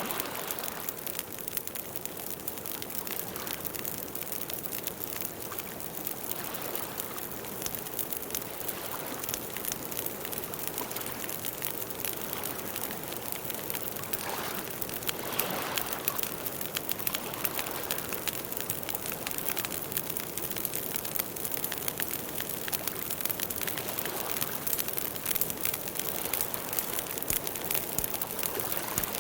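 Campfire burning, a steady run of small crackles and pops from the burning wood, with soft swells of hiss now and then.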